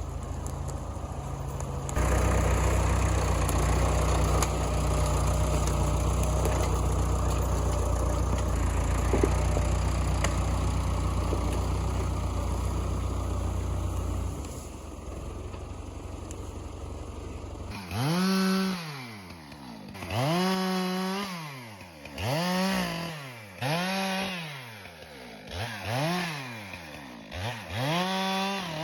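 Massey Ferguson tractor engine running steadily, louder for most of the first half and dropping back a little before stopping abruptly. Then a Stihl MS 462 chainsaw is revved up and down about six times, each rev rising and falling in pitch roughly every two seconds.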